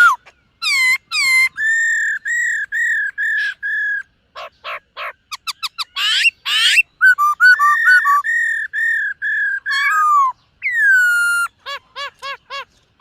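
Black-throated laughingthrush singing: loud, clear whistled phrases of repeated notes, a quick run of short notes near the middle, and a long falling whistle toward the end.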